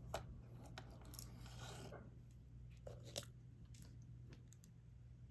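Faint, scattered small clicks and taps of resin diamond-painting drills being picked up with a stylus and pressed onto the canvas.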